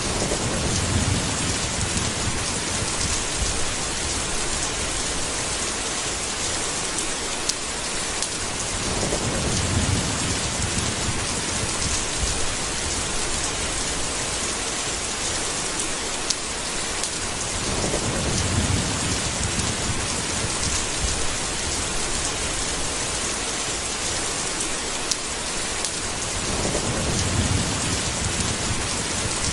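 Steady heavy rain, with low rolls of thunder that swell and fade four times, about every nine seconds.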